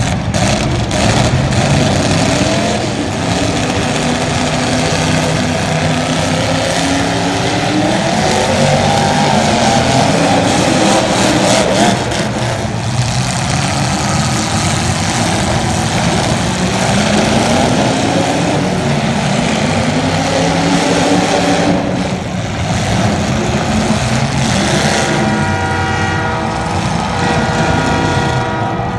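Several racing engines running together, each rising and falling in pitch as the cars accelerate and back off around the track. Near the end one engine holds a steadier note.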